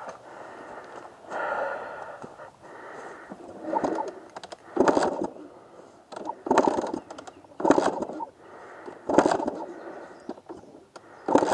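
Two-stroke dirt bike kickstarter being kicked over repeatedly, about seven strokes a second or so apart, with the engine not catching: the engine is drowned, with water in it from a flooded air box.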